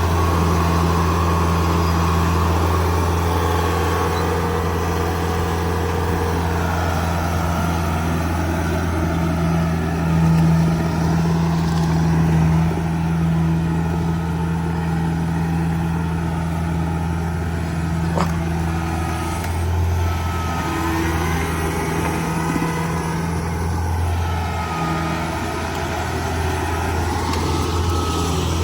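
Kubota DC70G Plus combine harvester running steadily: a deep engine drone, with a fainter higher whine that slowly dips and rises.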